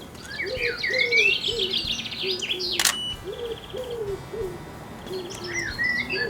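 A pigeon cooing in repeated low phrases, with a small songbird singing quick, high, sliding notes over it. A single sharp click sounds near the middle.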